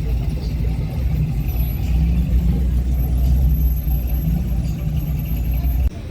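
Low, steady rumble of classic car engines, swelling a little midway and cutting off abruptly near the end.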